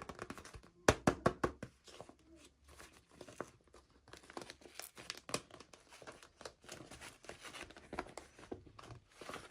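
Hands unboxing toy packaging: a dense run of crinkles, small clicks and taps, loudest in a cluster about a second in.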